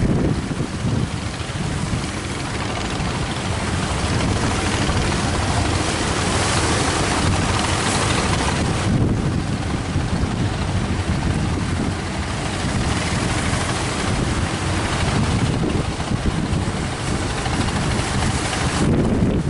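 Strong wind buffeting the microphone over the rush of sea surf, a steady, loud noise with a heavy low rumble.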